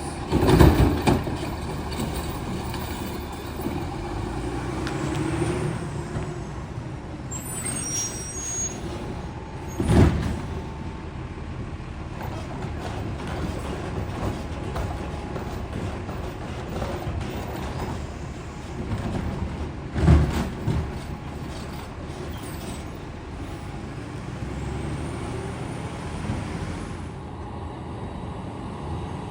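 Heil STARR automated side-loader garbage truck running steadily, with three short loud bangs about ten seconds apart.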